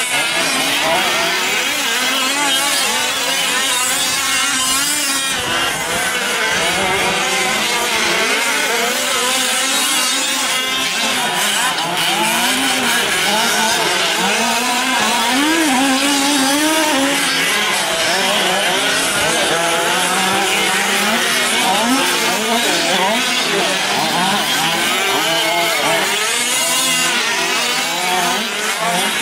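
Several 1/5-scale gas RC trucks racing together, their small two-stroke engines revving up and down as they throttle on and off around the track.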